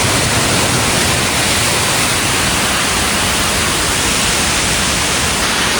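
Heavy thunderstorm downpour with strong gusting wind: one loud, steady rush of noise, uneven in the low end as the gusts come and go.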